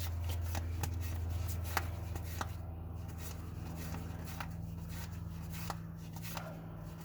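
1991-92 SkyBox basketball trading cards being handled and flipped through by hand: a scattering of light, irregular clicks and slaps of card stock over a steady low hum.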